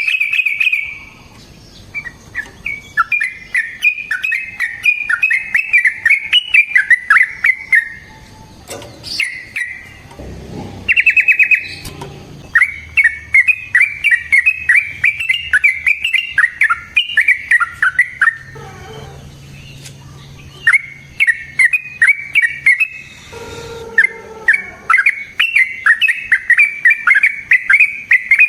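Yellow-vented bulbul singing: long rapid runs of bubbling, chattering notes, in several phrases broken by short pauses, with a brief fast rattle about eleven seconds in.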